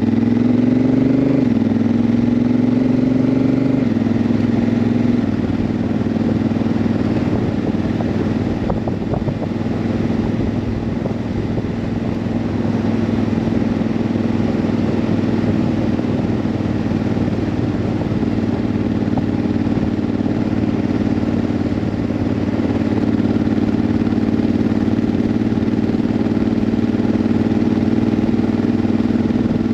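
Honda CRF1000L Africa Twin's 998 cc parallel-twin engine pulling through several quick upshifts of its dual-clutch gearbox in the first few seconds, the pitch climbing and dropping back each time. It then settles to a steady cruise under wind rush, easing slightly and picking up again.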